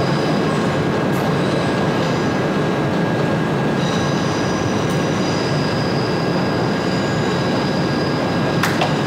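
Train running through the station with a steady, loud rumble. Several thin high-pitched tones join in about four seconds in, and there is one sharp click near the end.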